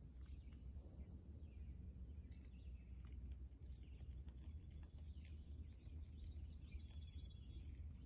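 Small birds chirping faintly, with a quick run of about eight high repeated notes a second or so in, then scattered chirps and short high whistles later, over a low steady rumble.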